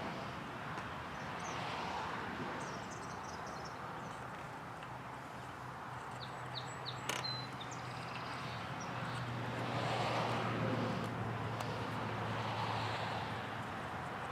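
Outdoor background noise: a steady low hum under a hiss that rises and falls like distant traffic passing, with a few short bird chirps and a single click about halfway through.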